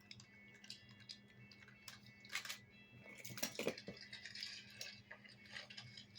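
Toy construction vehicles being handled: light clicks, knocks and rattles of small parts, busiest through the middle, over a low steady hum.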